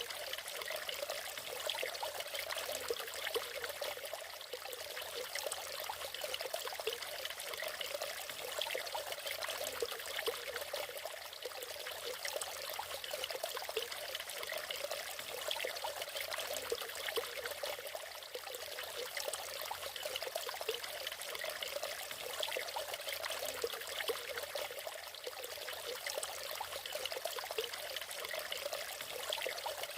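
A natural waterfall splashing and trickling, a steady rush of falling water with a fine, flickering splatter and little deep rumble.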